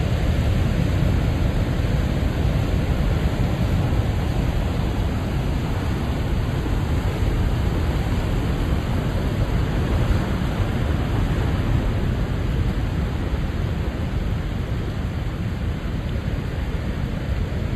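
Ocean surf breaking against a rocky shore at high tide, a steady wash of noise with a heavy low rumble.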